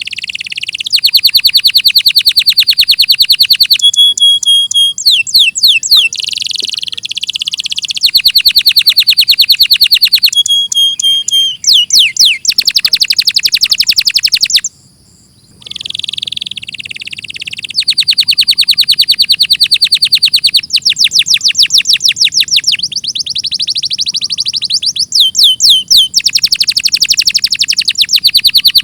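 Domestic canary singing: long, fast trills of rapidly repeated high notes, broken by a few quick rising sweeps. The song breaks off briefly about halfway, then resumes.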